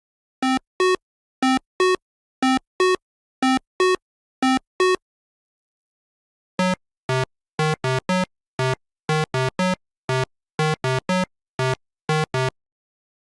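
Short electronic synthesizer beeps: five quick two-note pairs, each stepping up in pitch, then after a pause a faster, lower run of about eighteen beeps alternating between two pitches.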